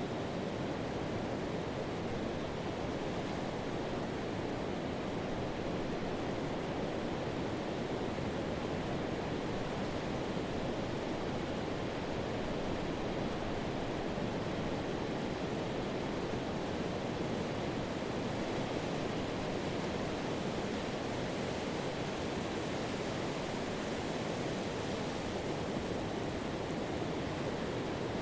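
Pacific Ocean surf breaking and washing up a sand beach, heard as a steady rush of noise with no distinct single wave crashes.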